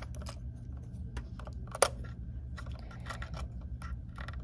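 Small clicks and taps from handling a die-cast toy garbage truck and its toy garbage can, with one sharp click about two seconds in, over a steady low hum.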